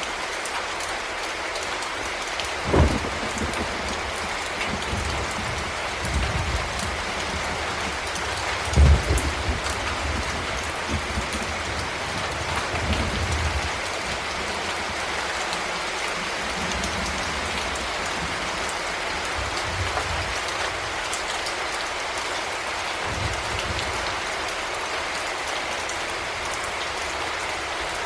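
Heavy rain falling steadily in an even hiss, with low rumbles of thunder rising through it. The loudest rumbles come about three seconds in and about nine seconds in.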